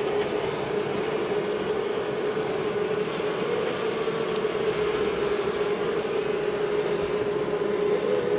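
Dense, steady buzzing of a honey bee colony disturbed during a wall cutout, many bees flying close around, holding one wavering pitch.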